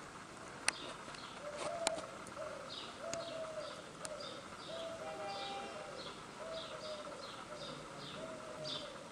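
Birds calling: a steady run of short, repeated low hooting notes, about one every half second, with quick high falling chirps over them. A few sharp clicks come in the first two seconds.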